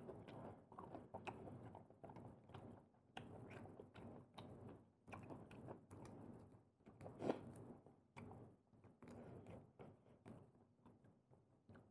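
Faint close-up chewing and biting of cooked prawns and clams: a steady run of small irregular crunches and clicks, with one louder crack about seven seconds in.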